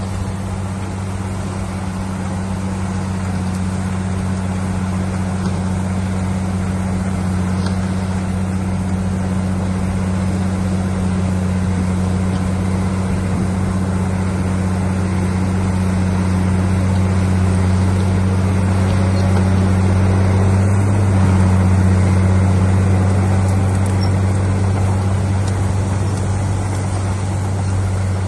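Heavy earthmoving machine's diesel engine running steadily with a deep drone, growing a little louder to a peak about three quarters of the way through, then easing slightly.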